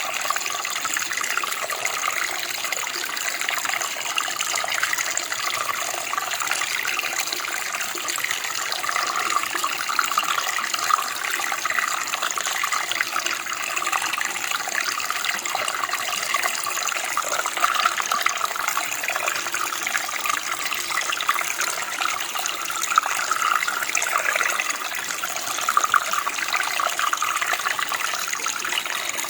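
Running water, a steady continuous splashing flow like a creek or small stream.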